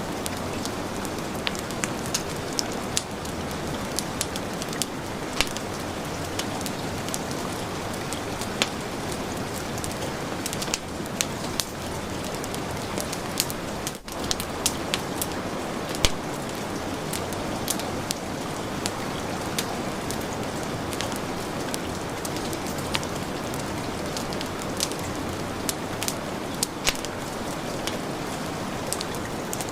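Heavy rain hissing steadily, with a wood fire crackling over it in scattered sharp pops. The sound dips for a moment about halfway through.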